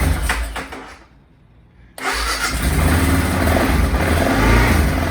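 BMW F650GS single-cylinder engine on its stock exhaust being started: a first burst of cranking fades out, then about two seconds in the engine catches and settles into a steady idle.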